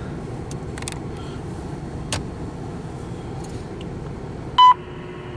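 CSX intermodal freight train rolling past: a steady rumble of wheels on rail with a few scattered sharp clicks. Near the end a short, loud beep comes from a scanner radio as a defect detector transmission opens.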